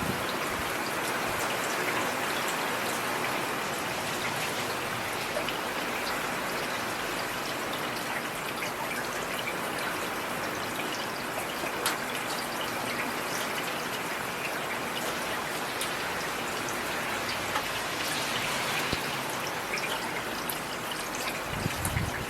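Heavy rain falling steadily: a dense, even hiss with scattered sharp ticks of individual drops.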